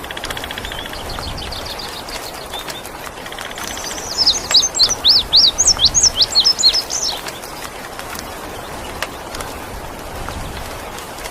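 Indigo bunting singing. It gives a short high trill, then a loud run of about a dozen quick sweeping notes between about four and seven seconds in, over a steady background hiss.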